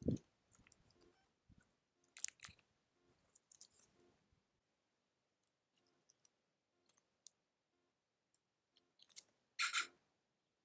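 Faint, scattered clicks and crunches of animals feeding at a feeding place, with a sharp thump at the start and a short, louder scrape near the end.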